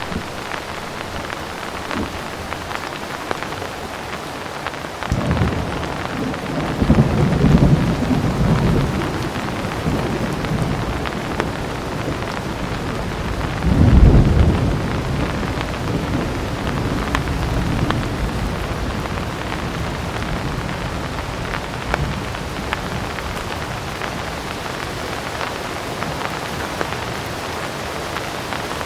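Heavy rain falling steadily. Thunder rolls in suddenly about five seconds in, swells twice with the louder peak near the middle, and dies back into the rain.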